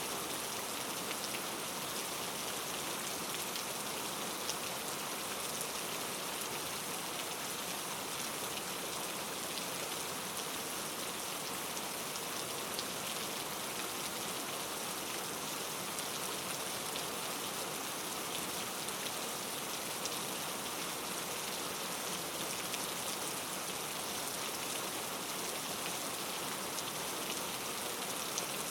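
Steady rain falling, an even hiss with the patter of many individual drops.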